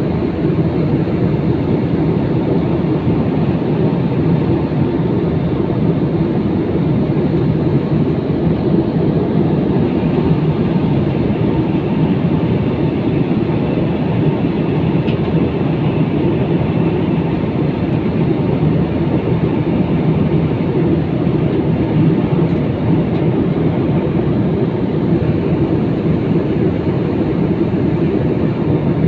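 Steady cabin noise of a jet airliner in flight, heard from inside the passenger cabin: a constant low rumble of engines and rushing air with no change.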